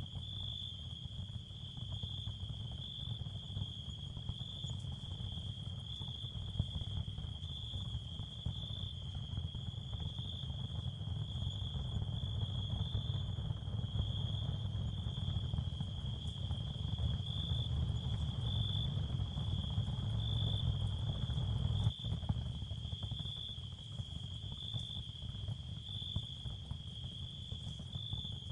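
Ambient therapy sound field: a steady, slightly pulsing high cricket-like chirring over a continuous low rumble.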